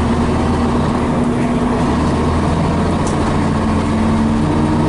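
Diesel engine of a 1976 Scania BR111H double-decker bus running steadily under way, its pitch shifting slightly partway through.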